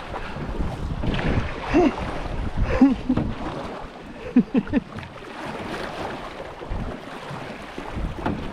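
Canoe moving through a rocky creek riffle: rushing, splashing water around the hull, with a few short rising-and-falling tones about two, three and four and a half seconds in.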